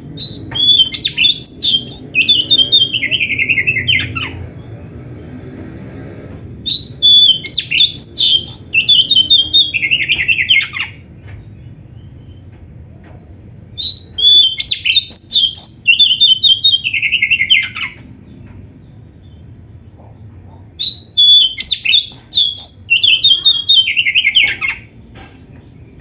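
Oriental magpie-robin (kacer) singing loud, varied song in four bouts of quick notes. Each bout lasts about four seconds, with pauses of about three seconds between them.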